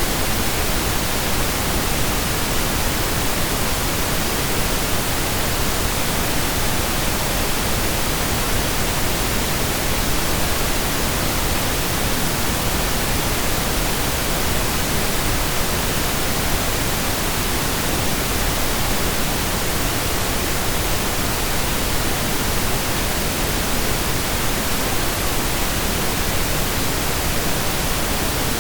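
Steady synthesized pink noise, an even hiss with equal energy per octave, unchanging throughout.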